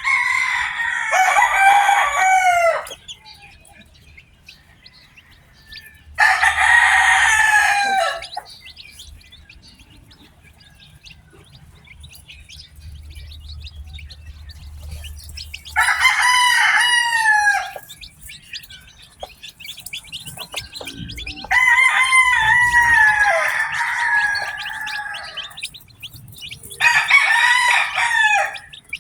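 Roosters crowing five times, each crow lasting two to four seconds, with faint high peeping of chicks in the gaps between.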